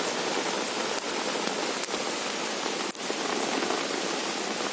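Campfire burning with a steady hiss and a couple of sharp pops, about two and three seconds in.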